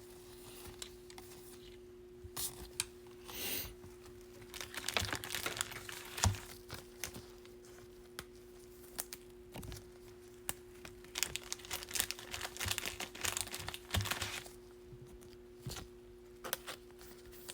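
Baseball trading cards and their wrappers being handled: intermittent crinkling, soft slides and light clicks, busiest in two stretches mid-way, over a faint steady hum.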